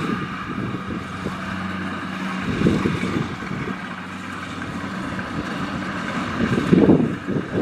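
Kubota DC-70 Plus combine harvester's diesel engine running steadily, with wind buffeting the microphone twice, about two and a half and seven seconds in.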